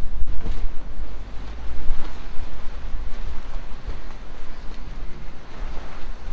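Wind buffeting the microphone: a gusty, deep rumble over a steady hiss.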